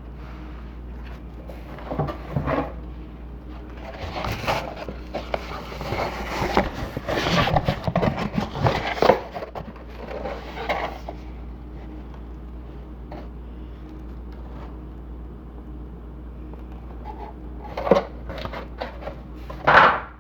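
Close-miked handling and crunching noises of a pizza meal: a dense run of rustles and crunches in the first half, then a quiet stretch and two sharp knocks near the end, over a steady low hum.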